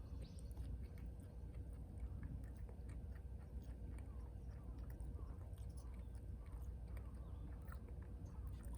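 A person chewing and biting into a bacon-lettuce muffin sandwich, with many small irregular clicks over a steady low rumble.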